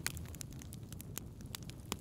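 Wood fire crackling, with irregular sharp pops and snaps over a low steady rumble; the loudest pops come just as it begins and near the end.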